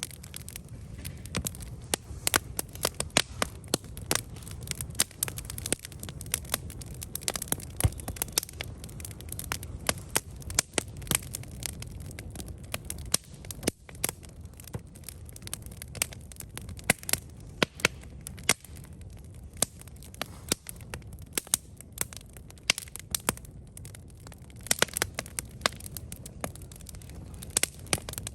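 Wood campfire burning, with frequent sharp crackles and pops over a steady low rumble of the flames.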